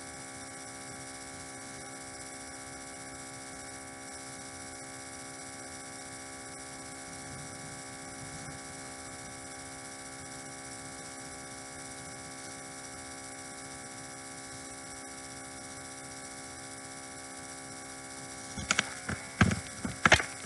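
Steady electrical hum made of many fixed tones, unchanging throughout. Near the end several loud sharp knocks break in.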